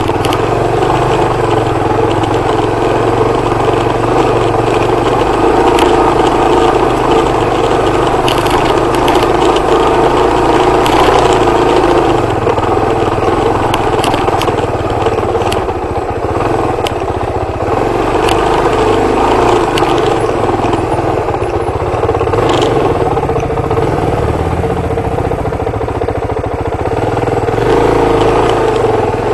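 Suzuki DR250R dirt bike's single-cylinder four-stroke engine running under changing throttle while riding, with occasional short knocks.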